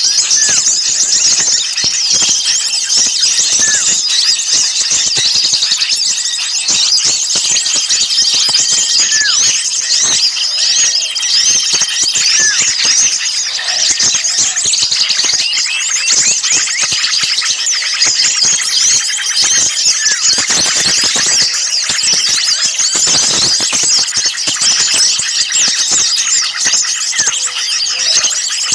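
Bird-lure recording of a dense, agitated chorus of many small songbirds chattering and calling at once. A thin, high whistle note held for about a second comes back every few seconds over the chatter.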